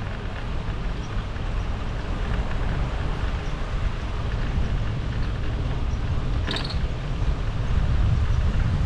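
Wind buffeting the microphone while riding a bike, a steady low rushing. About six and a half seconds in there is one short, sharp high-pitched sound.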